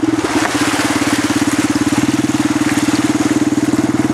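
Single-cylinder 250 cc ATV engine running at a steady, even putter close by.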